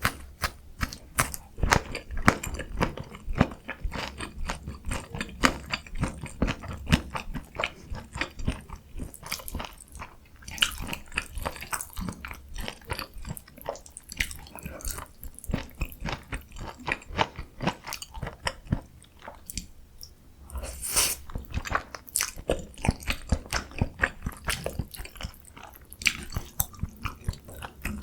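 Close-miked eating: steady chewing with many crisp crunches and wet mouth clicks.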